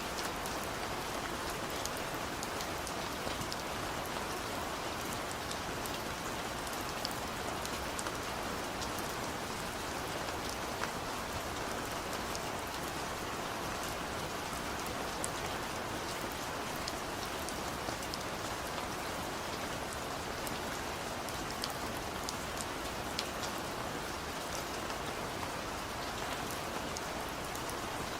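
Steady rain falling, an even hiss with scattered individual drop ticks on a surface.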